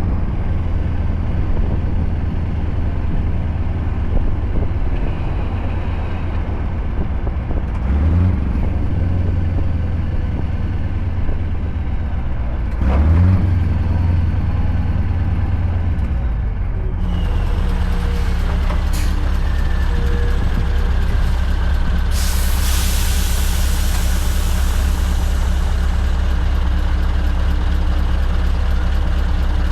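Scania R580's 16-litre V8 diesel, straight-piped, running with two brief rises in revs, then settling to a lower, steady idle. About two thirds of the way in, a loud hiss of released air from the truck's air brakes fades out over a few seconds.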